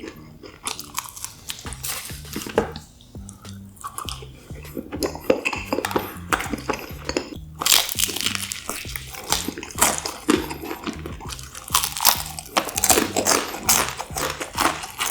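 Close-miked eating sounds of seasoned Korean fried chicken: repeated crisp crunching bites and chewing, coming thicker in the second half. Soft background music plays underneath.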